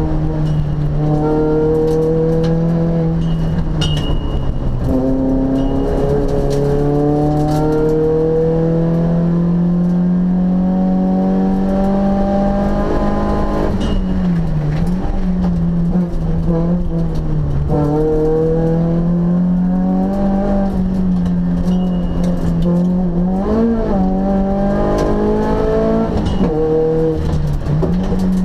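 Peugeot 106 Group N 1600 four-cylinder engine heard from inside the cabin under hard acceleration, its note climbing steadily through the revs and falling back sharply at each gear change or lift, several times over.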